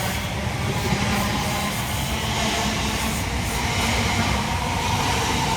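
Elizabeth Line Class 345 electric multiple unit departing, a steady rumble of wheels on rail with a faint steady whine.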